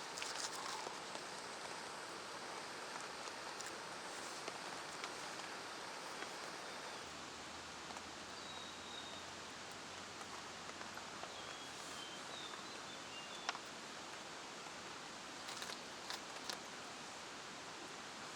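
Steady hiss of rain falling, with scattered drop ticks and a few sharper taps about two thirds of the way through.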